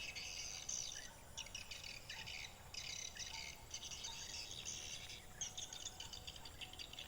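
A flock of swiftlets twittering overhead: dense, high chirps in runs broken by short gaps.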